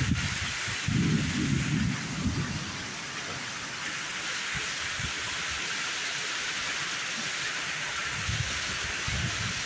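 Steady rain falling hard in a severe thunderstorm, with a low rumble of thunder about a second in and a weaker rumble near the end.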